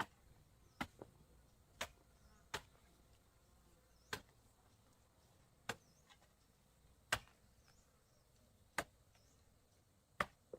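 A series of sharp knocks or chops, about ten strikes at uneven gaps of roughly a second, with faint high chirps in between.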